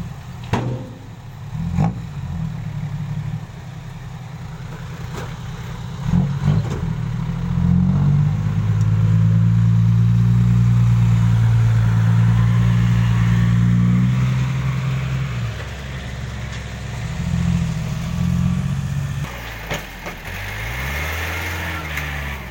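Six-wheel dump truck's diesel engine running, revved up and held high for several seconds in the middle, then dropping back to a lower speed.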